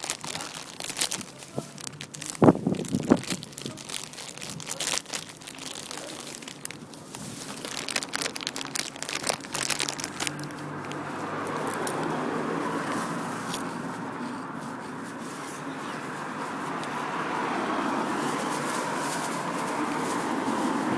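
Plastic shopping bags crinkling and rustling in quick, irregular crackles, giving way about halfway through to a steady drone of traffic.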